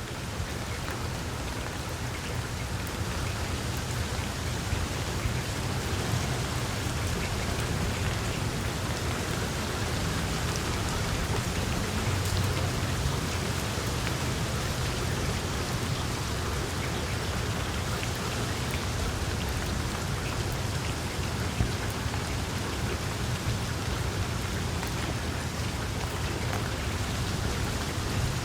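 Wood fire burning in a fireplace with a small flame: a dense, steady crackle of fine ticks over a low rumble, with one sharper pop about two-thirds of the way through.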